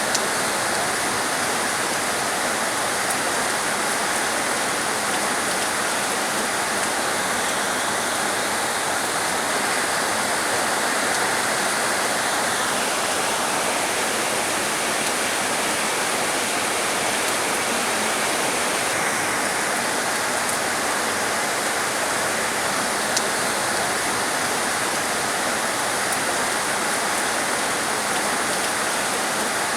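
Heavy rain falling in a steady, dense hiss, with no let-up.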